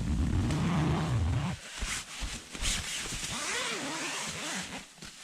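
Rustling and scuffling of tent fabric and snow as a person climbs out of a snow-covered backpacking tent. A heavy low rumble of handling and movement fills the first second and a half, then turns into irregular brushing and scraping.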